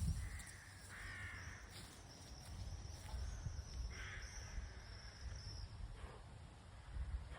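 Bird calling outdoors: three or four short calls, about a second in, around four seconds in and faintly near six seconds, over a low steady rumble.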